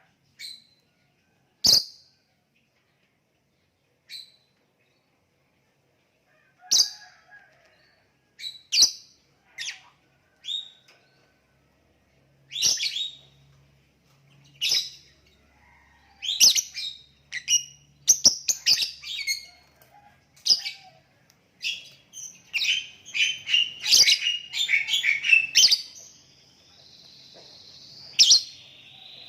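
Lovebird chirping: short, high-pitched chirps, a few scattered ones at first, then coming faster in quick runs from about halfway through.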